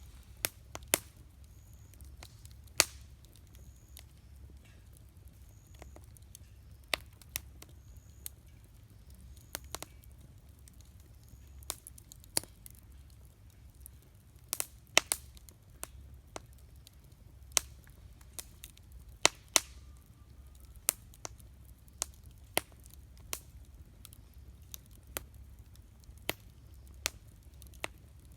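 Wood campfire crackling: irregular sharp pops and snaps, sometimes two or three close together, over a low steady rumble.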